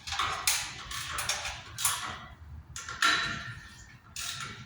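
Hand tools and metal parts of an HVAC unit clanking and scraping in a run of short, irregular bursts.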